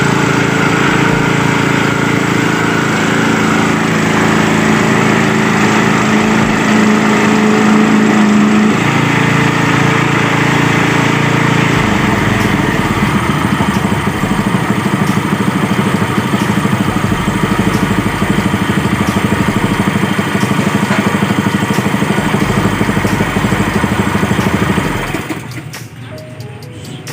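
Small single-cylinder gasoline engine of a 3x3 water pump running steadily at speed. About halfway through, the sound changes to a coarser, more plainly pulsing firing beat, and near the end it drops away sharply.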